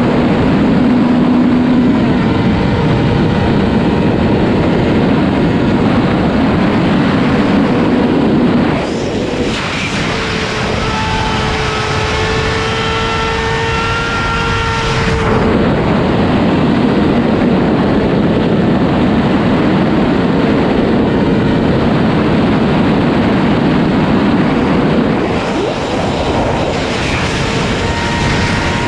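Sport motorcycle engine running at high revs while riding, heavy wind roar over the microphone, the engine note shifting with throttle and gear changes a few times.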